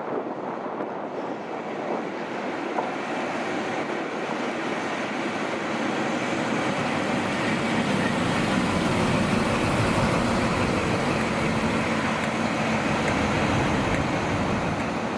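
High Speed Train with Class 43 diesel power cars passing at speed: engine and wheels on the rails grow louder as it approaches and stay loud as the power car and coaches run past close by.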